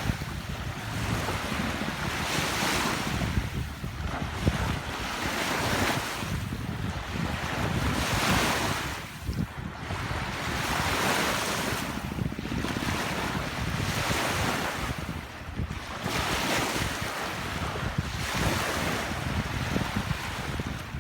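Sea waves washing onto a beach, surging in every two seconds or so, with wind rumbling on the microphone.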